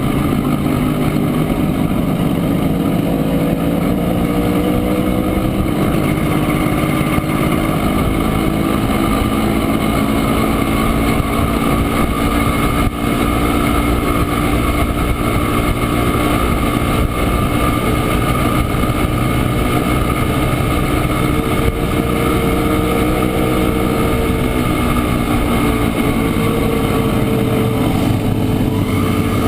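Engine of a 1967 Montesa Impala Comando 175 cc, a single-cylinder two-stroke, running steadily while ridden, its pitch rising and falling gently with the throttle.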